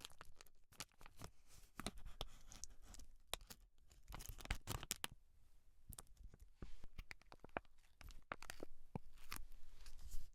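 Close-miked scratching and crackling of hair and scalp being worked, a dense run of small irregular crackles.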